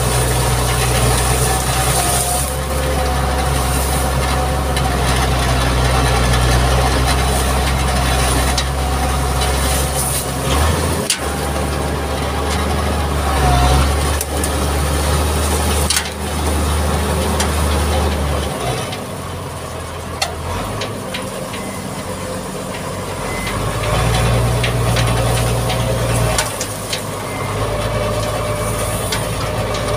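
Mitsubishi MG330 motor grader's diesel engine running, its low note shifting several times as engine speed and load change, with a few sharp knocks.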